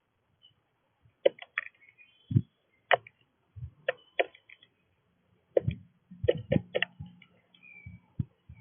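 Irregular sharp clicks and knocks close to the microphone of a bird feeder as animals feed on it, with a few faint high chirps between them.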